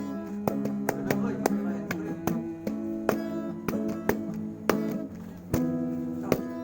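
Acoustic guitar strummed by a busker: an instrumental passage of chords with sharp, regular strokes and held chord tones between sung lines.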